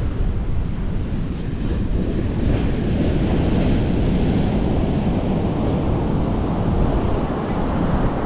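Ocean surf breaking and washing up the beach, with wind buffeting the microphone as a low rumble. The wash swells a little a few seconds in.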